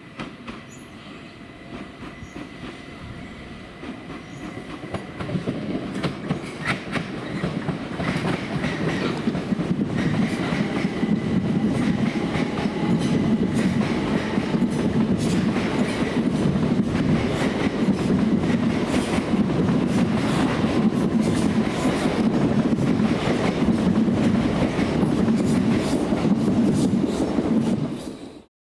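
A train approaching and running past, its wheels clicking repeatedly over rail joints. The sound builds over the first few seconds, stays loud, and cuts off suddenly near the end.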